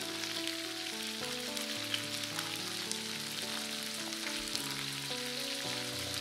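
Chicken wings sizzling in hot sesame oil in a wok: a steady crackling hiss, with soft background music of held notes underneath.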